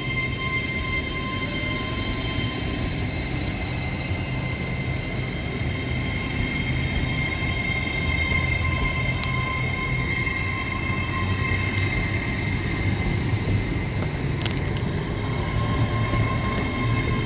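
LNER Azuma electric train pulling away from the platform: low rumble of the train under a steady high whine, growing a little louder partway through, with a few sharp clicks near the end.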